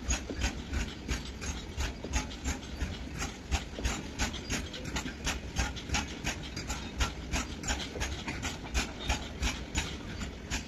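Passing train's wheels clattering over the rail joints: a rapid, uneven run of sharp clicks, several a second, over a low rumble.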